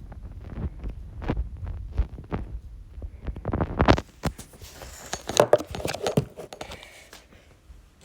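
Rapid knocks, clacks and thumps of mini-stick knee hockey being played: plastic mini sticks and the ball or puck striking, and players moving on a hard floor over a low rumble. The clatter is densest from about four to seven seconds in.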